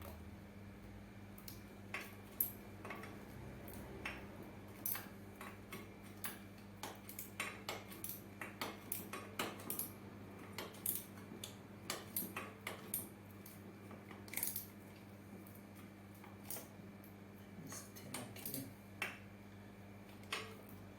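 Irregular light clicks and clinks of small hard objects, like tools and metal parts being handled and set down, coming several a second in the middle and thinning out near the end, over a steady low hum.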